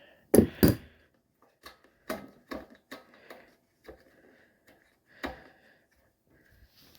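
Hand tools and small metal and plastic parts clicking and knocking during disassembly of a generator's air box and carburetor mounting: two loud knocks about half a second in, then a string of lighter, irregular clicks.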